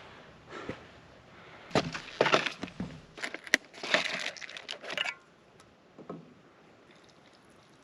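A burst of sharp cracks and crinkling handling noises lasting about three seconds, starting a little under two seconds in, then quiet.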